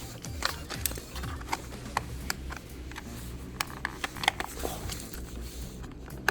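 Plastic trim on a Tesla steering wheel clicking and creaking as it is worked loose around its edge and pulled out bit by bit: irregular small clicks over a low steady hum.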